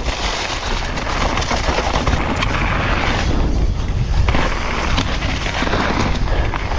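Steady wind rush buffeting the microphone, with a low rumble from riding fast over rough, bumpy ground.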